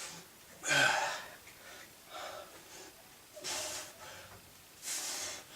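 A man breathing out hard in short, breathy bursts, one with each rep of a one-arm dumbbell row, about every second and a half.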